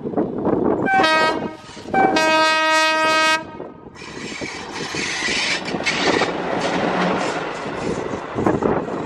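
WDM-3D diesel locomotive sounding its horn, a short blast about a second in and a longer blast of about a second and a half, followed by the locomotive and its passenger coaches running past, wheels clattering over the rail joints.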